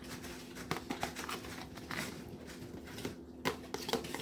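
Irregular clicks, taps and light rustling of food containers and lids being handled while rummaging through a refrigerator.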